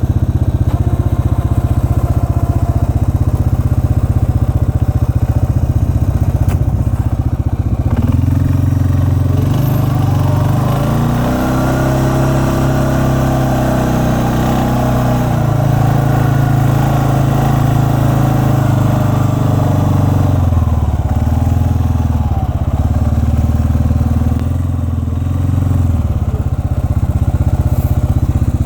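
A small petrol engine running steadily. Its pitch climbs about a third of the way in, holds, then falls back and wavers before settling near the end, as if under changing load or throttle.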